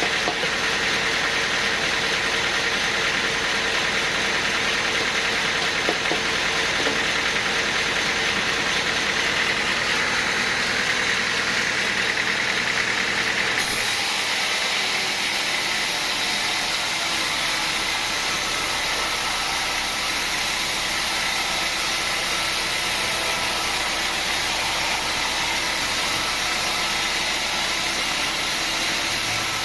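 Engine-driven machinery running steadily, with an abrupt change in its sound about halfway through, when the deep rumble drops away and the hiss grows higher.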